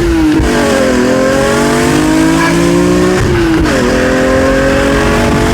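BMW E46 M3's S54 straight-six through a Valvetronic Designs valved exhaust, pulling hard under acceleration. The engine note eases for about a second, then climbs steadily. It drops sharply at a gear change a little past three seconds in and climbs again.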